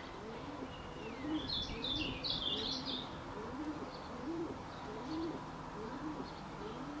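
Birds calling: low, rising-and-falling calls repeated over and over, with a short burst of high chirping between about one and a half and three seconds in.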